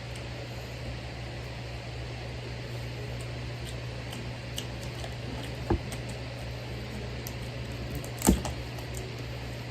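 Quiet eating and food handling over a steady low hum: faint scattered clicks, with two short soft knocks, one about halfway through and a louder one near the end.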